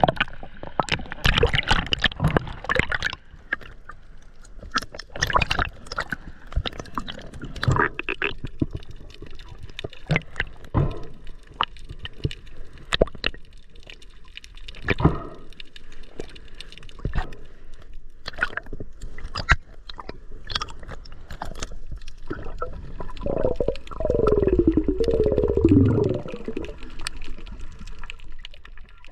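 Water gurgling and sloshing, with many sharp clicks and knocks throughout and a louder bubbling gurgle near the end.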